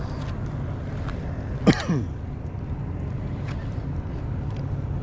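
A small boat's motor runs steadily at low trolling speed, a low hum with wind on the microphone. About one and a half seconds in comes a single brief, sharp sound that drops quickly in pitch.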